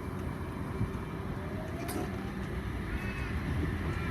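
Eight-car Oscar (H-set) electric multiple unit pulling away: a steady low rumble with a faint rising whine from the traction motors. There is one sharp click about two seconds in.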